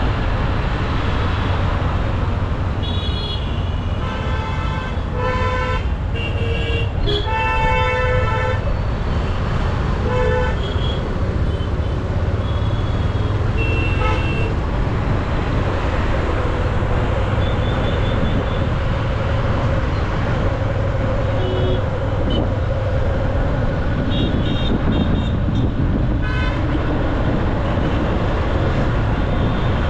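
Busy city road traffic heard from a moving motorcycle: a steady low rumble of engines and road noise, with many vehicle horns honking. The honks come thick and overlapping in the first third, then as scattered short toots.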